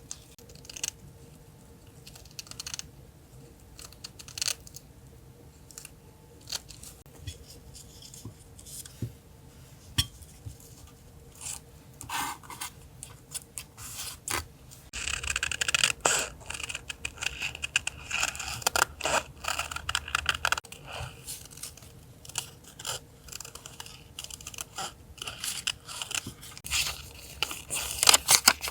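Paper and stickers being handled for collage journaling: short scrapes, taps and scissor snips throughout. A denser stretch of paper scraping and tearing comes a little past halfway. A faint steady electrical hum sits underneath.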